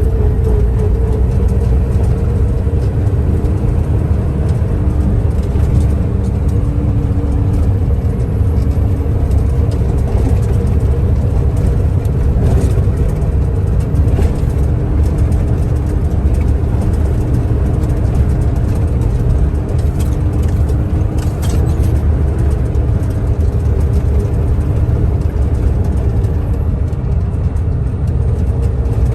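Large mining dump truck's diesel engine running steadily: a deep rumble with a constant hum above it.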